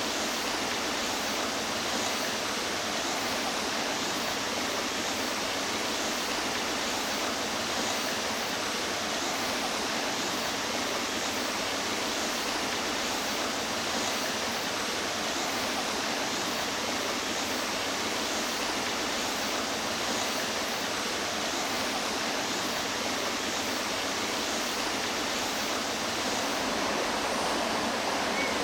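Mountain stream running steadily, an even rush of water, swelling slightly near the end.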